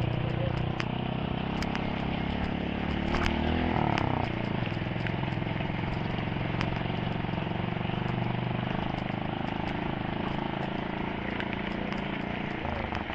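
A motor vehicle's engine running steadily, its low hum held even throughout, with a few light ticks on top.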